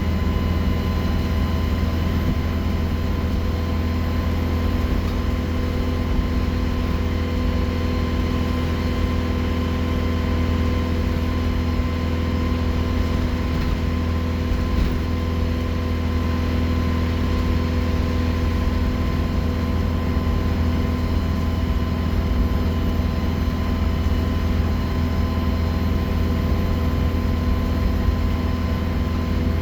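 Alexander Dennis Enviro 200 bus engine running steadily: a low drone with a steady turbocharger whistle over it, unchanging in pitch.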